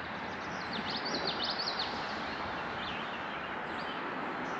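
Steady rush of creek water, with a small bird chirping a quick run of high notes about a second in and a few fainter chirps after.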